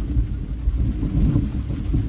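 Thunder rumbling low and unevenly while rain falls steadily.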